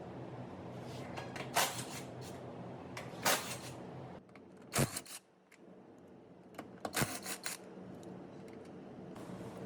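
Workshop handling noise: a handful of sharp knocks and clicks, spaced a second or two apart, over a steady low machine hum.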